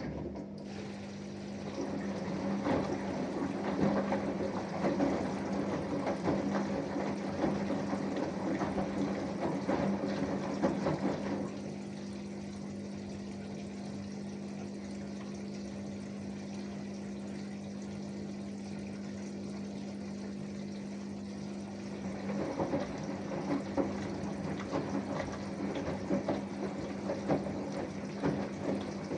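Samsung Eco Bubble washing machine running, a steady pump-like hum under rushing, splashing water. The splashing eases about twelve seconds in, leaving a steadier hum, and picks up again about ten seconds later.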